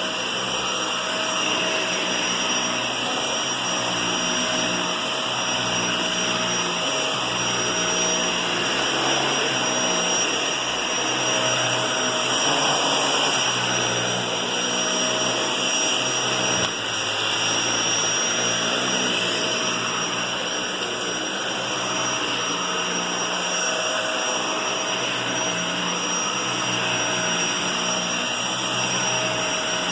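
Vacuum cleaner running steadily: a constant rush of air with a high whine, its low hum swelling and fading slowly, with a brief dip about 17 seconds in.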